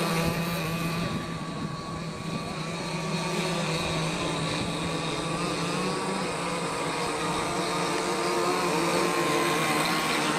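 Two-stroke gasoline engines of radio-controlled racing boats running at speed, a steady engine note with a brief dip in loudness about a second in.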